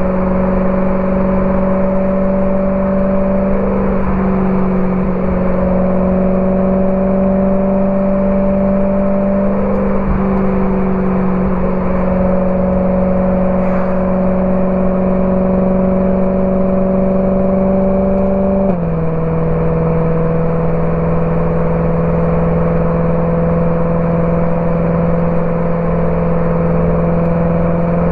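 BMW E92 M3's V8 engine through a Borla ATAK exhaust, running at a steady cruise with a constant drone. The pitch creeps slowly up and drops slightly three times: once a few seconds in, again around ten seconds, and once more about two-thirds of the way through.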